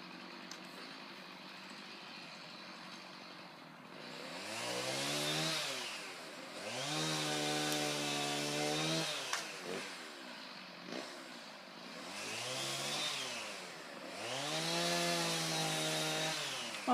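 Chainsaw cutting up felled trees: it idles faintly, then revs up four times, each time held at full speed for a second or two before dropping back.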